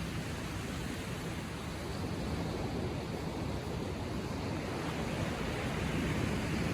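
Ocean waves lapping gently on the shore: a steady wash of surf that swells slightly near the end.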